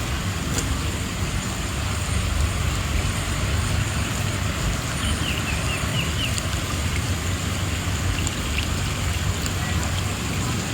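Steady rushing noise of fast-moving floodwater.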